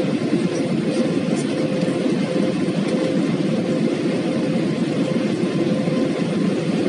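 Airbus A320 cabin noise in flight after takeoff: the steady rush of engines and airflow with a constant hum, unchanging throughout.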